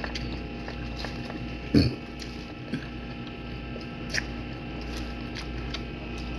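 A person chewing food with the mouth closed, with small wet mouth clicks, over a steady background hum. One brief, louder low sound comes about two seconds in.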